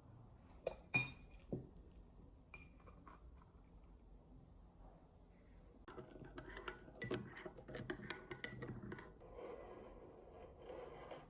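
Glass or dishware being handled: a couple of sharp clinks, one ringing briefly, about a second in, then a busier run of light clinks and rattling in the second half.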